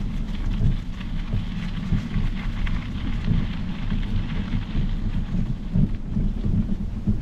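Wind buffeting the microphone in a low, gusty rumble while a Specialized Epic Pro mountain bike's tyres roll over a trail with a steady fine crackle of small ticks.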